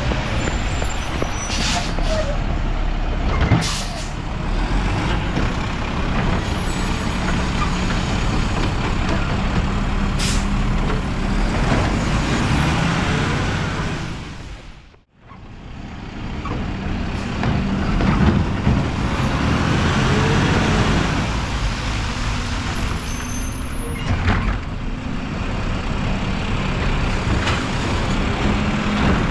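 Mack LR garbage truck's engine running and revving up and down, with several short sharp air hisses. The sound dips away briefly about halfway through.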